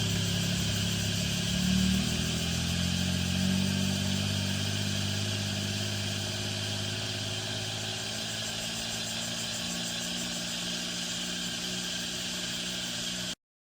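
Engine of a small Daewoo truck running, with two brief rises in revs about two and three and a half seconds in, then growing gradually quieter. It cuts off suddenly near the end.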